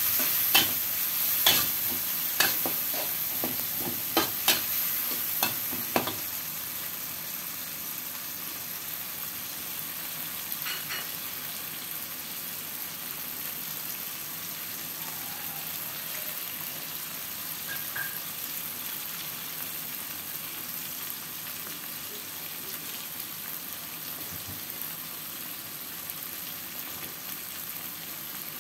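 Oil sizzling in a wok as freshly added ground chili paste, tomato and aromatics are stir-fried. A metal spatula scrapes and knocks against the wok several times in the first six seconds, then only a steady sizzle.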